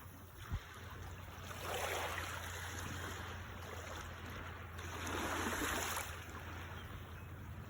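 Shallow seawater sloshing and washing, rising in two long swells, over a steady low hum.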